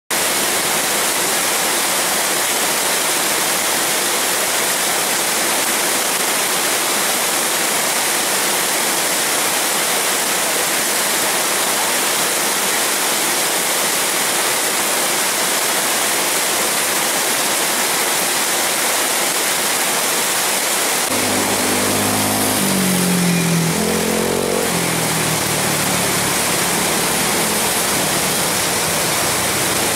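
Heavy tropical rain pouring down in a steady hiss. About two-thirds of the way in, a small motorbike engine passes through the rain, its pitch rising and falling for a few seconds before it fades.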